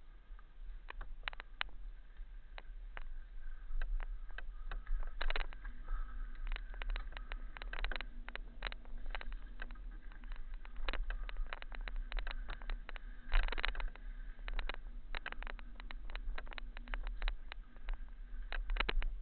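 Mountain bike riding over a rough, rocky trail: dense, irregular rattling and clatter with sharper knocks as the wheels hit stones, over a steady low rumble of vibration and wind on the camera. A faint steady tone comes in about a third of the way through.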